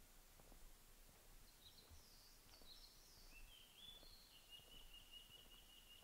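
A small songbird calling faintly: a few quick high chirps, then a rapid ticking trill from about three seconds in, over faint footsteps on a forest road.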